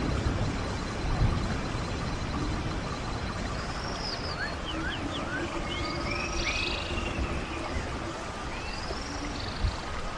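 Running stream water as a steady hiss, with birds calling in short rising and falling chirps through the second half. A low rumble about a second in and a brief low thump near the end.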